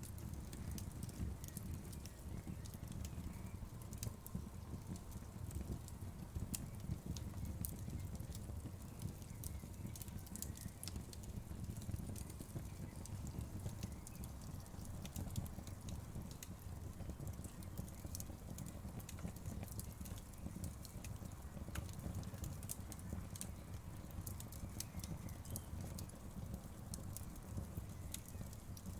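Wood fire crackling: a steady low rumble of burning with frequent small, sharp pops and snaps scattered throughout.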